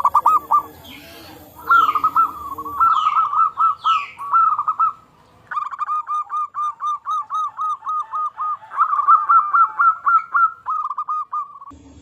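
Zebra doves calling: rapid runs of short cooing notes, about four a second. Other birds give a few descending whistles in the first few seconds.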